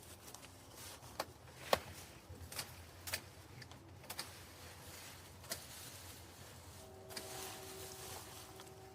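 Faint scattered clicks and knocks of debris being moved while a spot is cleared out, about half a dozen sharp ones. From about seven seconds in a steady two-tone hum with a rushing hiss joins them.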